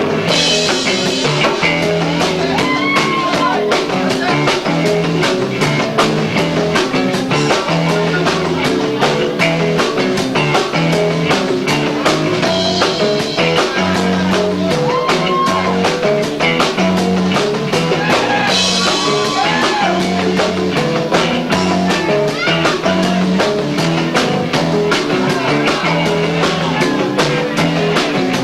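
Live rock band playing loud and fast with two drum kits, electric guitar and bass, picked up by a 1990s camcorder's built-in microphone, so the sound is lo-fi.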